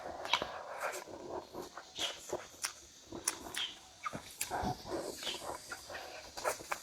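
Close-miked eating: chewing and crunching of fried pork, with irregular crackles and wet mouth clicks.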